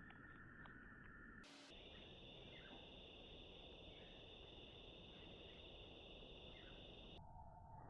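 Faint steady trilling of an insect chorus over low background noise. Its pitch jumps higher after a short click about one and a half seconds in, and drops lower about seven seconds in.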